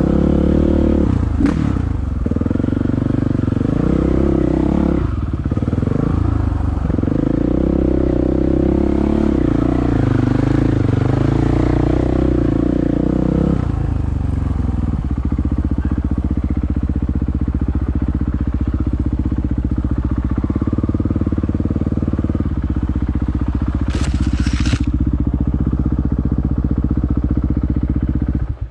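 Dirt bike engine running, the revs rising and falling through the first half and then held steady for the rest. There are a couple of short clatters along the way.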